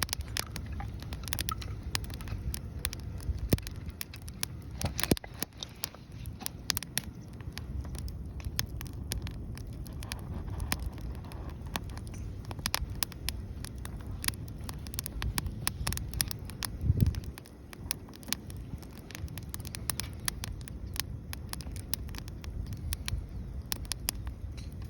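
Wood fire crackling, with frequent sharp pops over a low, steady rumble. A single dull thump about 17 seconds in.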